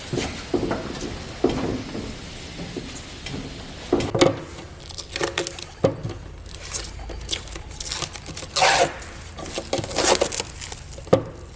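Workshop handling noise: irregular knocks, clicks and short scraping and rustling sounds.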